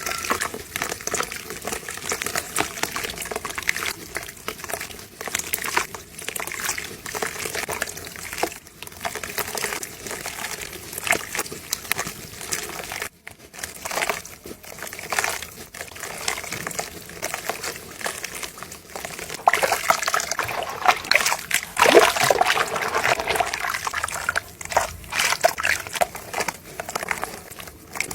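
Soft, dry cement crumbling into water: irregular wet crackling, splashing and trickling, with a brief break near the middle and a louder, busier stretch about three quarters of the way through.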